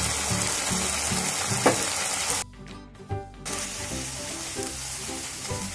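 Tomato and onion sauce sizzling in a hot pan as red chilli powder is stirred into it with a silicone spatula. The sizzle drops away for about a second midway, then resumes.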